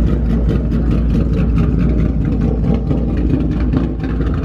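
A car engine and exhaust running loud and low-pitched, with a fast, even pulsing.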